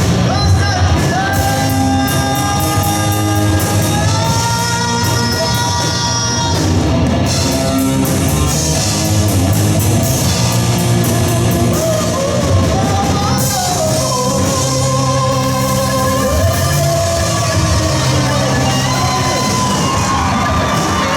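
Live rock band playing: a singer holding long notes over distorted electric guitar, bass guitar and a drum kit with steady cymbal strokes.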